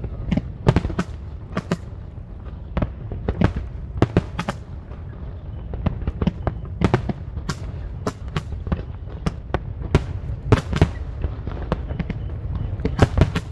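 Aerial fireworks going off: an irregular run of sharp bangs and crackles, one to three a second, over a continuous low rumble.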